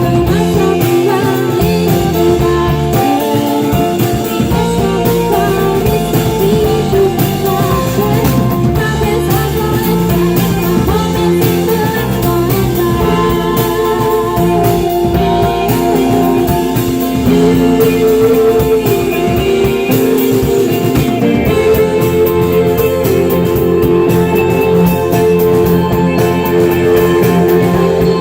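Live rock band playing, with electric guitars to the fore in a dense, continuous wall of sound.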